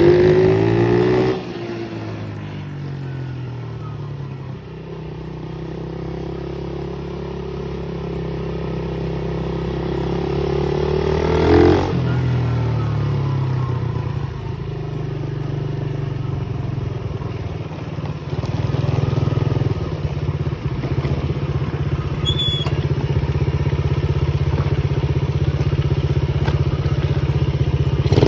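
Pit bike engine running during a ride: the revs fall at the start, climb slowly to a peak about twelve seconds in, then drop sharply and hold fairly steady.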